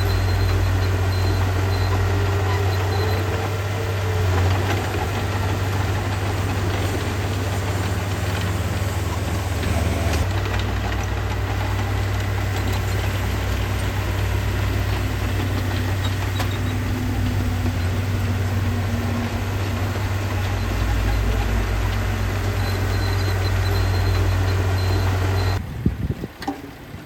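Heavy-equipment diesel engine running steadily with a deep, even drone. Near the end the sound drops away abruptly.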